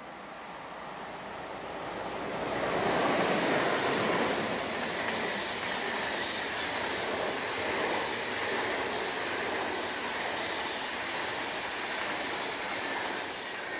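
A train passing close by: the noise of wheels on rails builds over the first three seconds, holds steady, and fades near the end.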